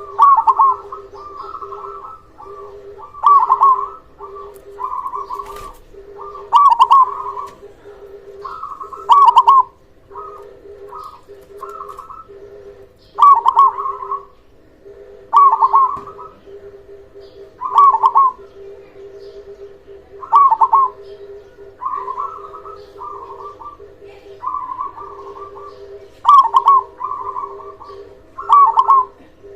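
Local zebra dove (perkutut) cooing over and over: a loud, pulsed coo phrase every two to three seconds, with softer cooing in between, over a steady low hum.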